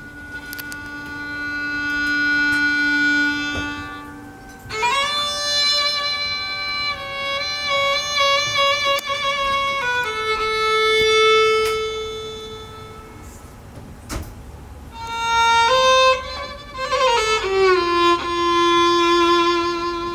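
Solo violin playing slow, long held notes that swell and fade, stepping up and sliding down between pitches, with a brief pause about two-thirds of the way through.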